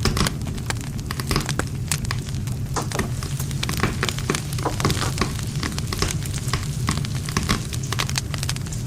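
Wood campfire burning, with dense, irregular crackling and popping of the wood over a steady low rumble of the flames.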